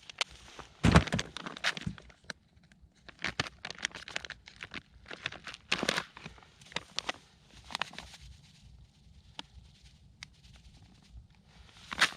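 Irregular crunches and crackles of snow and ice underfoot and being handled, with the loudest crunch about a second in and another near the end.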